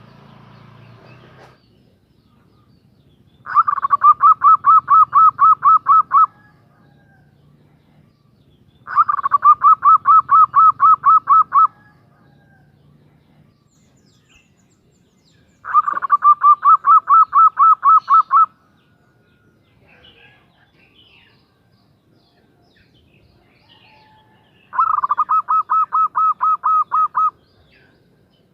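Female zebra dove (perkutut) calling: four bouts of rapid staccato cooing notes, about four to five notes a second, each bout lasting two to three seconds with pauses of several seconds between. This is the call she uses to attract a male.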